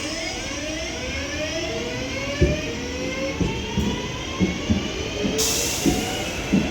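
Doubled-up Class 323 electric multiple unit pulling away, its traction motors giving a whine of several tones that rise in steps as it accelerates. From about two seconds in there is a series of low knocks, and about five seconds in a burst of hiss starts.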